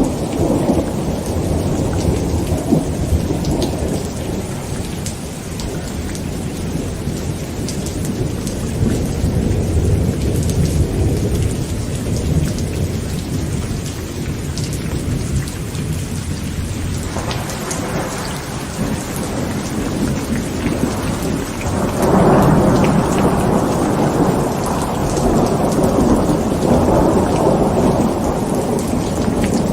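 Heavy rain drumming on a tent, with thunder rumbling on and on beneath it and rolling up louder about two-thirds of the way through.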